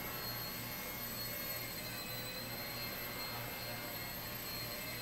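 Blade 70S micro RC helicopter in flight: a steady high-pitched electric motor whine over a low, slightly wavering hum from the spinning rotor.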